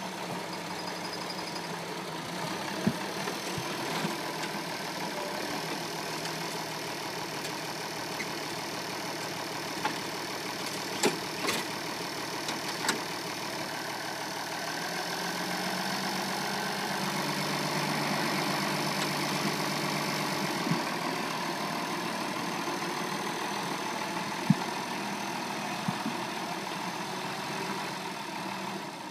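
International Harvester 1486 tractor's six-cylinder turbocharged diesel engine idling steadily, growing louder for several seconds in the middle, with a few sharp clicks.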